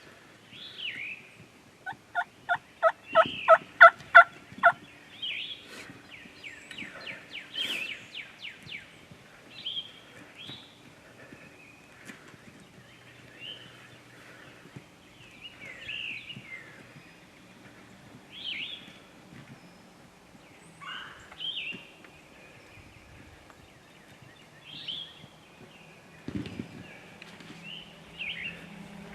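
Eastern wild turkeys calling: a run of about nine evenly spaced yelps a couple of seconds in, a rattling gobble right after, then short scattered calls every second or two.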